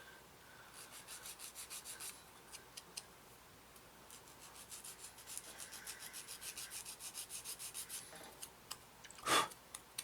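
Sanding stick rubbing back and forth on a small plastic model-kit part to take off moulding flash, in quick even strokes of about five a second, in two spells. Near the end there is one short loud burst.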